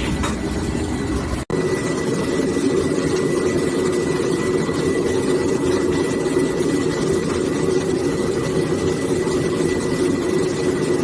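Homemade dual-burner gas forge running with a steady rushing roar and a faint steady high whine while a railroad spike heats inside. The sound drops out for an instant about a second and a half in, then carries on.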